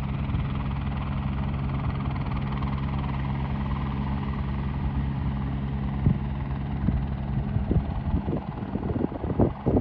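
Type 3 light firefighting helicopter running steadily in flight with a full water bucket slung below, a steady low drone. In the last few seconds irregular thumps come in over it.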